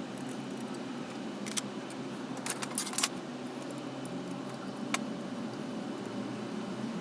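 A few sharp metallic clinks, clustered a little past halfway, over a steady low hum.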